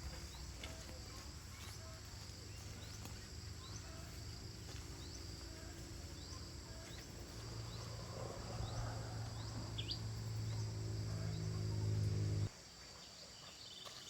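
A low hum with several overtones grows louder over the second half and cuts off suddenly near the end. Insects chirr steadily high up throughout, with short bird chirps.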